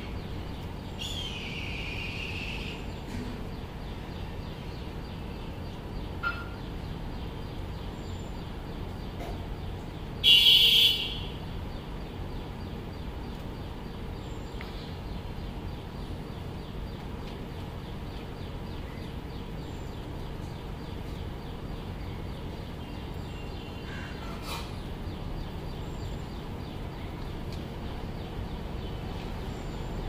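Bird calls over steady low background noise: a falling call about a second in, and one loud, harsh call lasting under a second about ten seconds in, with a few faint short sounds later.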